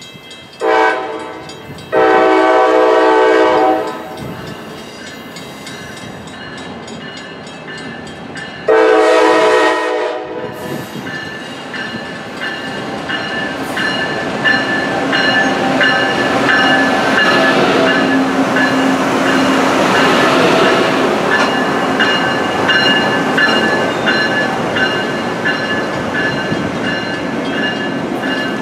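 Amtrak ACS-64 electric locomotive sounding its horn in three blasts, a short one, a long one, then another a few seconds later, as it approaches. Then the locomotive and its coaches roll past, a rumble of wheels on rail that grows louder, with a steady high whine and regular wheel clicks over it.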